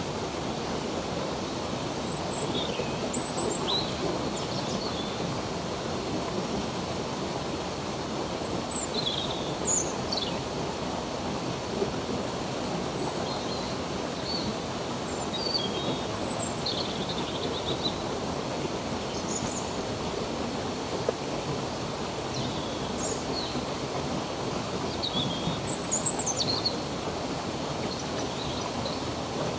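Flowing water with a steady rush, with birds chirping over it in short, scattered calls.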